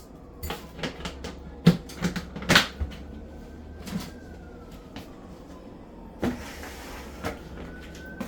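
Kitchen handling noises: a string of knocks and clatters of pots, utensils or a cupboard being moved about, loudest about one and a half to two and a half seconds in.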